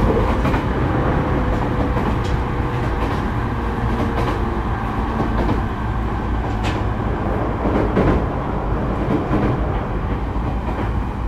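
Running noise inside a refurbished JR E231 series electric commuter train, recorded in a motor car (MoHa): a loud, steady rumble of wheels and running gear with a few sharp clicks as the wheels pass rail joints.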